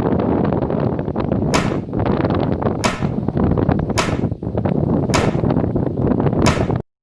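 Heavy wind buffeting the microphone while riding, a dense rushing noise, with five sharp clicks at roughly one-second intervals. It cuts off suddenly near the end.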